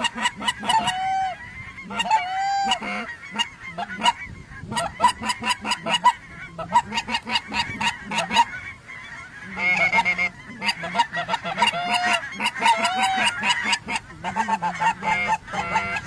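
Goose calling: rapid, overlapping honks and clucks in quick runs, with a short lull a little past halfway.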